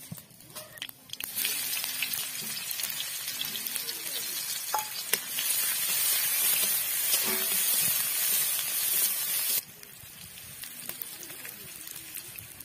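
Chopped ingredients frying in hot oil in a metal kadai, stirred with a metal spatula, with a loud, even sizzle. The sizzle starts about a second in and cuts off abruptly near the end, leaving a much fainter sound with a few light clicks.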